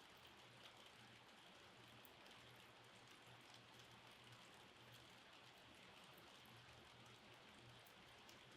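Faint, steady rain, with many scattered drops ticking, over a low, faint hum.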